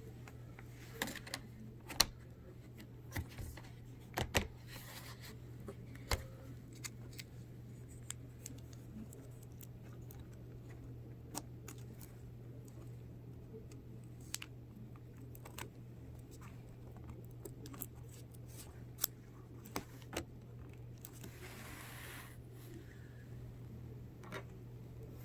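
Scattered small clicks and taps as laptop display parts and a connector cable are handled, over a steady low hum. A brief rustle comes a little before the end.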